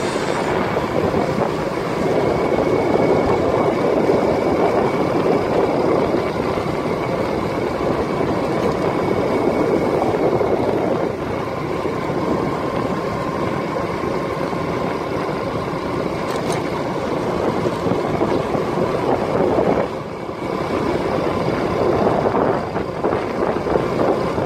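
Steady engine, tyre and wind noise from a moving vehicle on the road, with small rises and falls and a brief dip about twenty seconds in.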